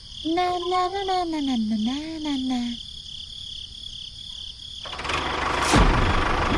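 A short pitched voice-like sound that falls and then rises in pitch. About five seconds in, a toy tractor's motor noise starts and grows louder, with a sharp click as it gets going.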